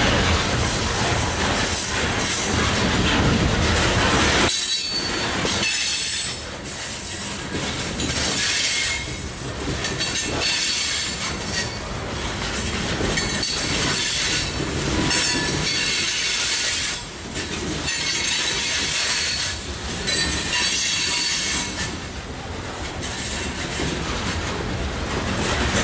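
Loaded coal train rolling past, its cars' wheels clattering over the rails with a steady rumble and an intermittent high squeal from the wheels.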